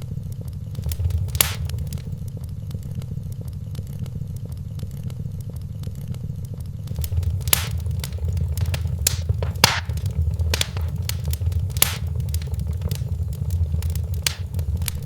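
Wood fire crackling in a fireplace: a steady low rumble of burning with scattered sharp pops and snaps, busier and louder in the second half.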